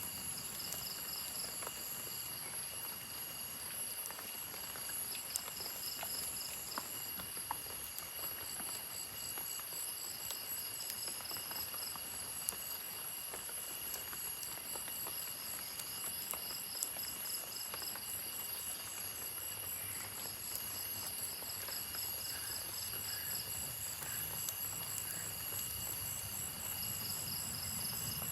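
Night insects chirring in the forest in several high layers, one a steady whine, others pulsing in quick repeated bursts, over a steady hiss with scattered light ticks.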